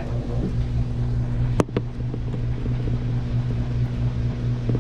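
Samsung washing machine running on its long spin to get the water out of the clothes: a steady low hum, with one sharp click about a second and a half in.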